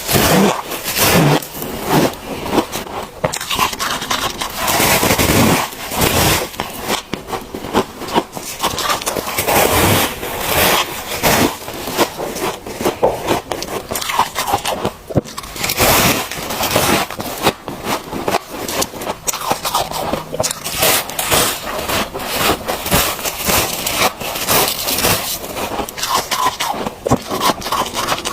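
Freezer frost being bitten and chewed close to the microphone: an irregular run of crisp crunches and scrapes.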